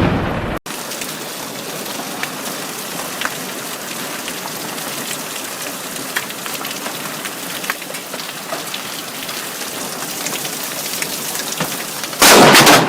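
Steady heavy rain with scattered drop ticks. About a second before the end, a sudden, very loud thunderclap from a lightning strike close enough that its shockwave is felt.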